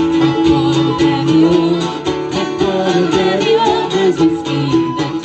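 Live band music: an instrumental passage of an Irish-style folk tune, with strummed guitar and other plucked strings keeping a steady rhythm under a melody line.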